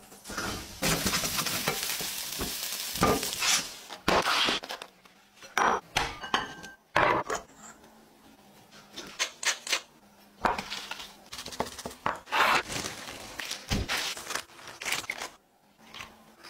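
Chopped onion sizzling as it is scraped into hot oil in a pan for the first few seconds. Then a series of clinks, knocks and scrapes of utensils against bowls and dishes as a filling is mixed and food is handled.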